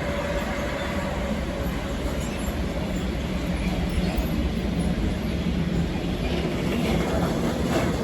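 Train rolling through a station, a steady rumble of wheels on rails with faint wheel squeal near the end.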